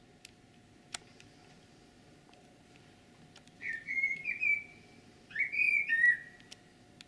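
A songbird singing two short, whistled phrases a little over half a second apart, the second slightly louder. There is a single faint click before the song.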